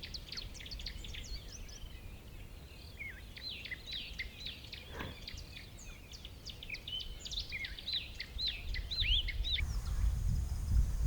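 A flock of small birds twittering: many quick, overlapping chirps, over a low steady rumble. Near the end the chirping stops and the low rumble grows louder.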